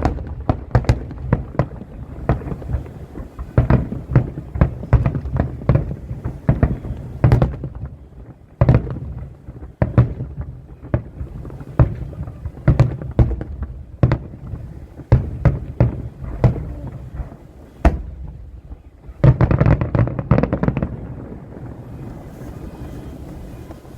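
Fireworks bursting one after another, many sharp bangs echoing, with a dense volley of bursts near the end before it eases off.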